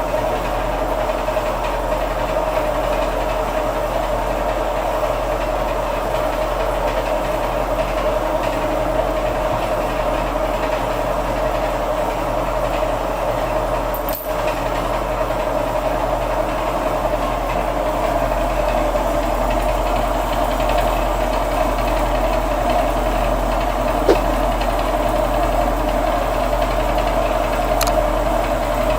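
A small machine running steadily with a constant mechanical hum, briefly dipping about halfway through.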